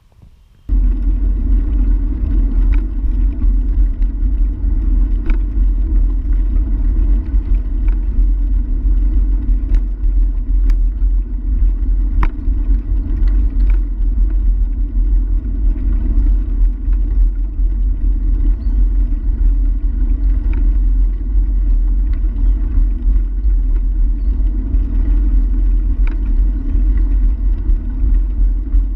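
Steady wind and road rumble picked up by a camera riding along on a bicycle, with a few light clicks and rattles. It starts abruptly just under a second in.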